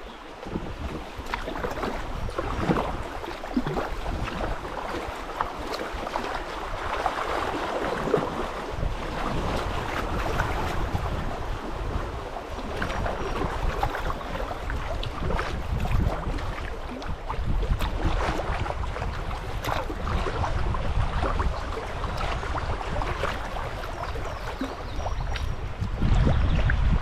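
Water splashing and sloshing around a kayak on a river, with wind on the microphone; the wind rumble grows louder near the end.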